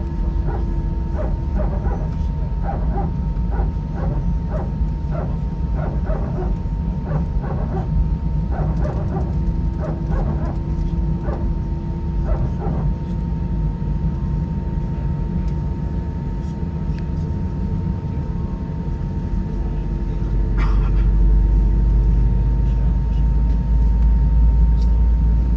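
Airbus A320 cabin noise while taxiing: the steady hum and rumble of its IAE V2500 engines, with a run of short, high yelps over the first half, like a small animal's. The low rumble swells about twenty seconds in.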